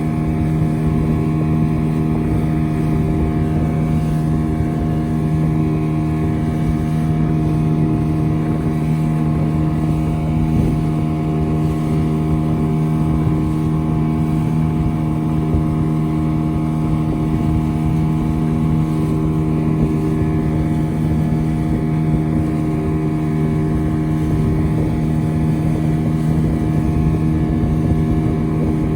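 Boat engine running steadily at an even speed, its drone holding one pitch throughout, with wind on the microphone.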